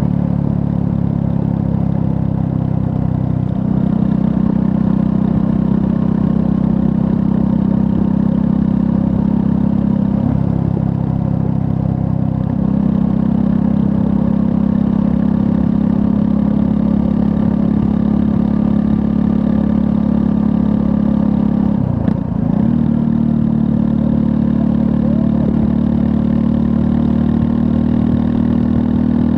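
A Triumph Scrambler 400 X's 398 cc single-cylinder engine running at fairly steady road revs while riding, with small changes in engine pitch and one brief drop in revs and loudness about three-quarters of the way through before it picks up again.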